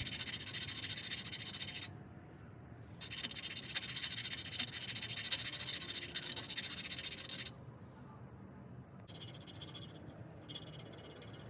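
A pilot bushing being shaved down with an abrasive, a scraping hiss that runs about two seconds, pauses, then runs again for about four seconds before stopping. Material is being taken off its outside and inside to get the right fit and clearance.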